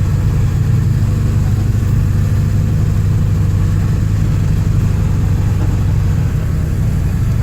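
Ford E-350 van's 7.3 Powerstroke turbo-diesel V8 running steadily at low revs, with no revving.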